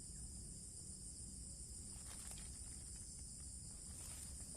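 Steady high-pitched chorus of insects, with a few faint clicks and rustles about two seconds in and near the end.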